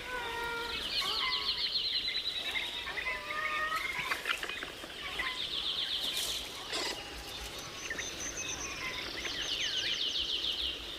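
Forest ambience of bird calls: short whistled notes and chirps, over rapid high trills that come in three bouts, about a second in, around five seconds in, and again from about eight seconds.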